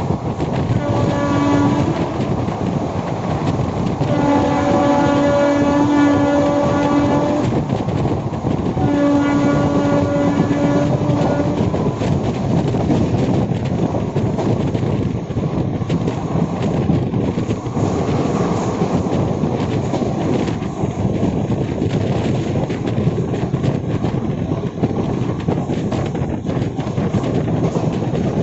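Express train running through a station at high speed without stopping. The locomotive horn sounds three times: a short blast about a second in, a long one of about three seconds from about four seconds in, and a third of about two and a half seconds. Under and after the horn comes the steady rush and clatter of the coaches' wheels passing over the rails.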